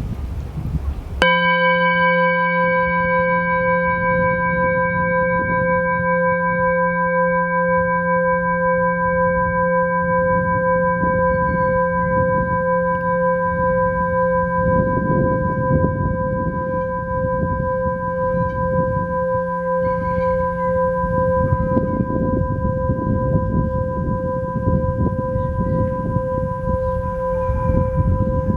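Singing bowl struck about a second in, its tone then ringing on steadily with several overtones. Underneath runs a low, uneven rushing noise that grows stronger around the middle and again later on.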